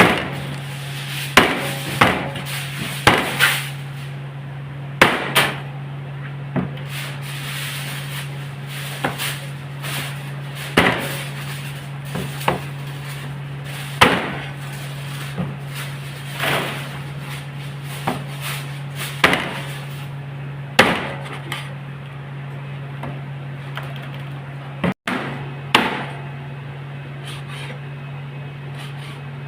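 Irregular knocks and scrapes of objects being handled, one every second or two, over a steady low hum. The knocks thin out over the last few seconds.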